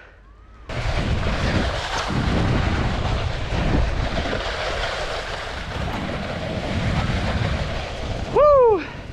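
Rushing noise of a towed snowboard ride: wind buffeting the microphone and the board sliding over snow, starting suddenly under a second in. Near the end a short call that rises and falls in pitch, like a man's 'whew'.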